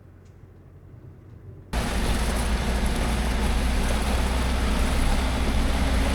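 Camper van driving: a faint low engine hum, then about two seconds in a loud, steady rushing noise with a deep rumble starts abruptly and holds, as the van drives out through standing floodwater after heavy rain.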